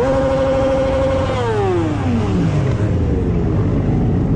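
Motorcycle engine revved high and held there for about a second, then the revs drop away steadily over the next second and a half, over a constant low rumble.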